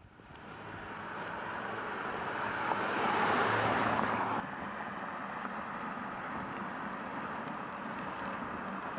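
A car on the move: steady rushing road and wind noise that fades in, swells about three seconds in, and drops suddenly a second later to a lower steady level.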